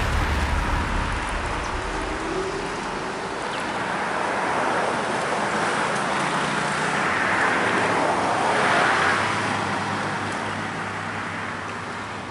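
Road traffic passing close by: the tyre and engine noise of vehicles swells and fades, loudest about nine seconds in, over a low rumble at the start.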